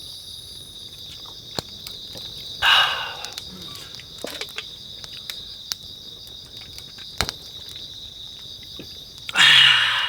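Crickets chirring in a steady high drone, with a few sharp clicks scattered through and two short, loud breathy bursts, one about a third of the way in and one near the end.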